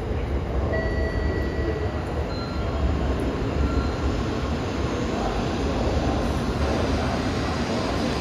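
N700-series Tokaido Shinkansen train running alongside the platform: a steady rumble of wheels and running gear, with faint short high whining tones coming and going.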